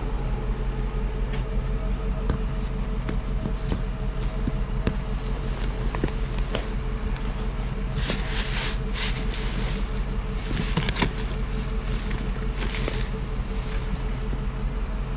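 A motor vehicle engine running steadily with a low hum. Over it are scattered clicks and bursts of rustling and clattering, the longest about halfway through, as items are moved about and handled.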